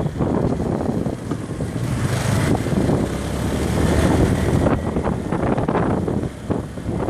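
Motorbike ride: engine and road noise mixed with wind buffeting the microphone, with a brief swell of hiss a few seconds in.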